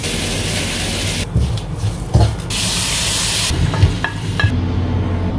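Kitchen cooking sounds: food sizzling in a pan and stirring, in several short clips that cut abruptly from one to the next.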